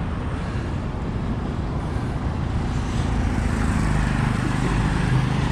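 Road traffic running past, with a steady low rumble. One engine's hum grows stronger toward the end.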